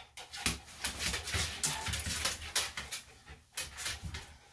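Small senior Bichon–Shih Tzu cross fidgeting on a grooming table: irregular scuffling, rustling and light knocks from the dog moving under the groomer's hands, along with its breathing.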